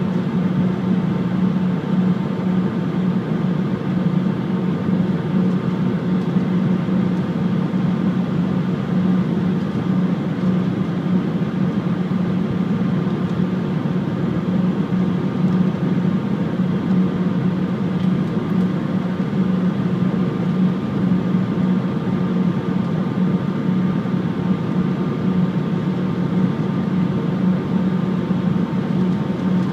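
Steady cabin drone of an Airbus A319 in flight on descent, with its IAE V2500 engines and the rushing air. A strong low hum sits under the noise, with a few faint steady tones higher up, and nothing changes.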